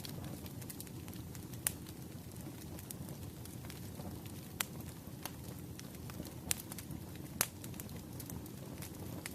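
Firewood burning in a steady low rush of flame, with a few sharp crackles and pops from the wood, the loudest near the end.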